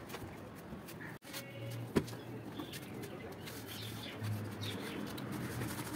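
Bird calls over background noise, with a single sharp knock about two seconds in.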